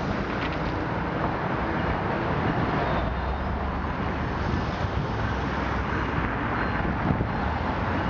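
GE Tier 4 diesel-electric demonstrator locomotive working at the head of a freight train, its diesel engine giving a steady low drone over a constant wash of wheel and rail noise as the train approaches.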